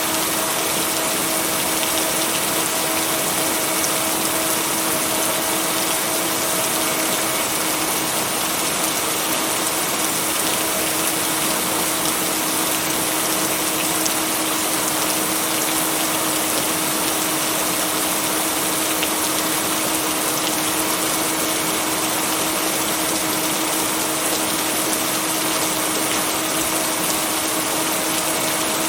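Steady rain noise, an even hiss, with a constant low tone and its octave held underneath: a blended binaural-beat layer. No thunder.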